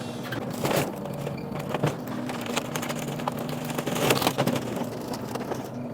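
Excavator engine running steadily while the machine crushes demolition rubble, with scattered sharp cracks and crunches of breaking debris.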